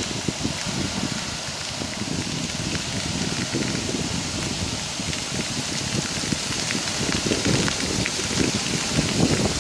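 Storm on a beach: heavy rain and strong wind over breaking surf, a steady hiss with gusts of wind buffeting the microphone that grow stronger near the end.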